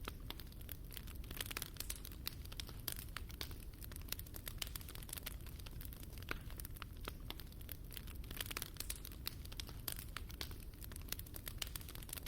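Fire burning in a fireplace, crackling with many small irregular snaps and pops over a low, steady rushing noise.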